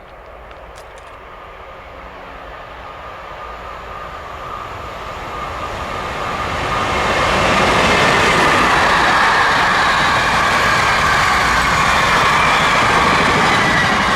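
A train approaching and passing on the main line. It grows steadily louder over about seven seconds, then runs by loud and steady.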